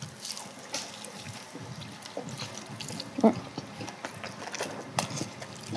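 Two people chewing large mouthfuls of soft braised pig's feet (jokbal), with scattered wet mouth clicks and smacks.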